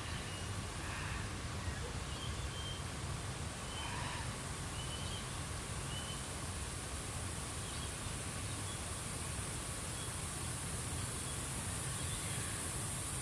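Australian bush ambience at sunset: scattered short, faint bird chirps over a steady high-pitched drone that grows louder near the end, with a steady low rumble underneath.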